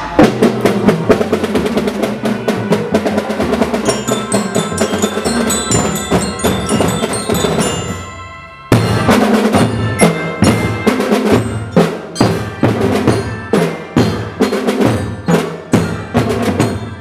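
School drum band playing: marching drums beat steadily under a melody on high metal bells. The band drops off briefly about halfway, then comes back in with a steady beat.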